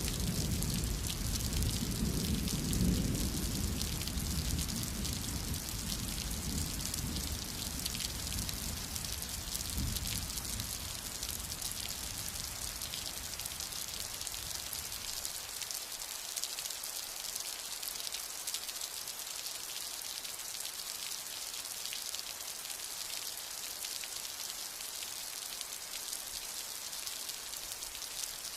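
Steady heavy rain with dense patter, and the tail of a low thunder rumble that dies away about halfway through.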